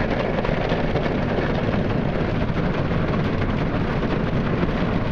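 Ryko Softgloss XS automatic car wash running on a pickup truck: wash brushes and water spray beating continuously on the body. It is loud and steady, heard from inside the truck's cab.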